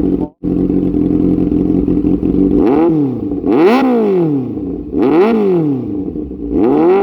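Kawasaki Z800's inline-four engine through a full-system AR exhaust, idling steadily just after start-up, then blipped four times, each rev rising and falling back to idle.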